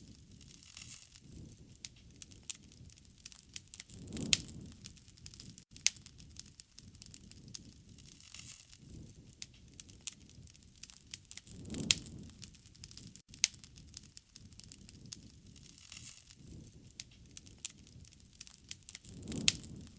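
Wood fire crackling, with irregular sharp pops and snaps, and a soft low rush that swells three times, about seven to eight seconds apart.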